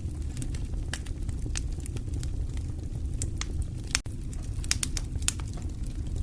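Wood fire in a fireplace crackling and popping, with irregular sharp snaps over a steady low rumble of the burning fire. The sound drops out for an instant about four seconds in.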